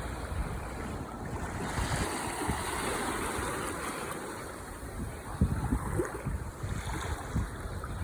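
Ocean waves breaking and washing on the shore as a steady rush of surf, with one wash swelling up a couple of seconds in.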